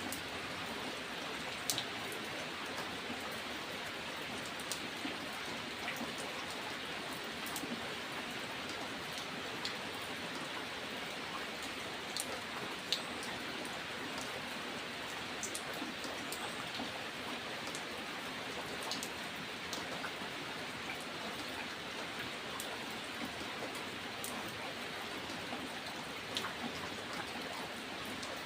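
Steady rain: a dense, even hiss with scattered sharp ticks of single drops hitting a surface close by.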